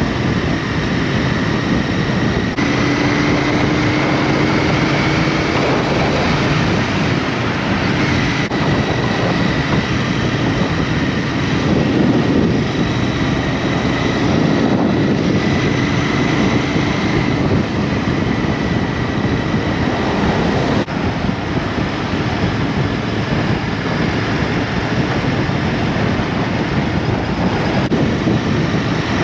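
Steady wind and road rush from a moving motorbike, with a faint engine note that drifts slightly in pitch.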